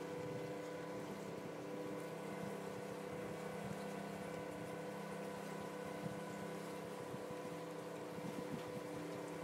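Motor of a small pontoon ferry running steadily under way, a constant drone with a faint rush of water and wind.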